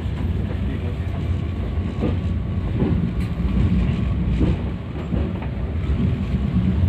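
Passenger train pulling out of a station, heard from inside the carriage: a steady low rumble of the running gear with a few light wheel clicks.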